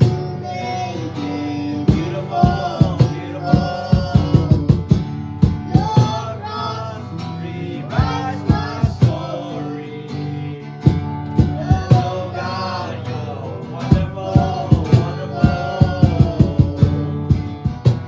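Worship band music: a sung melody over guitar, with a frequent percussive beat.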